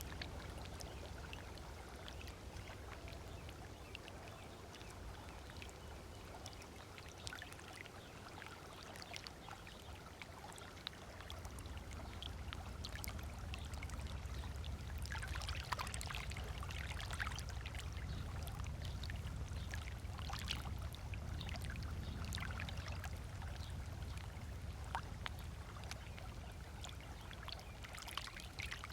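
Small waves lapping on a sandy beach: a steady wash of water with many small splashes, a little louder through the middle stretch.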